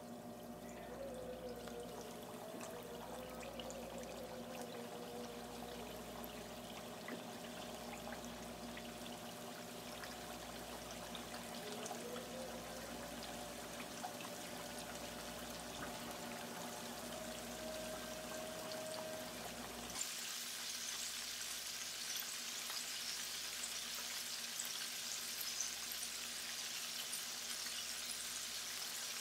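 Battered chicken pieces deep-frying in hot oil at about 350 °F in a frying pan: steady sizzling, which turns suddenly brighter and hissier about twenty seconds in.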